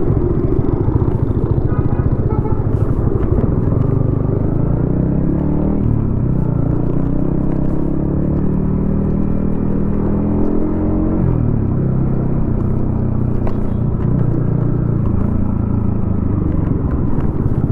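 Yamaha XSR155's single-cylinder engine running through a DIY exhaust while riding: the engine note rises as it accelerates from about four seconds in, holds, then drops as it slows around eleven seconds, and runs steadily after that.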